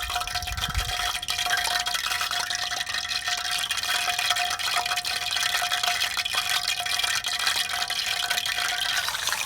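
Chicken pieces deep-frying in hot oil over a wood fire: a steady, dense crackling sizzle.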